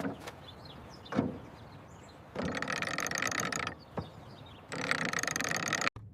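A thump about a second in, then two stretches of rapid mechanical ratcheting clicks, each lasting about a second.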